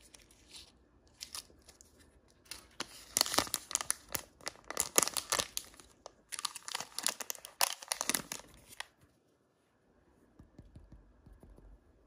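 Toy packaging wrapper being torn open and crinkled by hand, in a dense run of rustles from about three seconds in that stops about nine seconds in.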